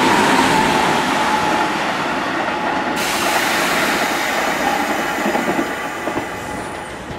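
Kintetsu electric trains running on the Osaka Line. One passes close by with wheel and rail noise. About three seconds in the sound changes abruptly to another train, heard approaching and quieter.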